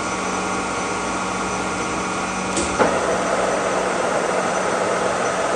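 Kearney & Trecker horizontal milling machine running with a boring head on its horizontal spindle, a steady gear whine made of several held tones. A little under three seconds in there is a sharp click, and the machine sound turns rougher and slightly louder.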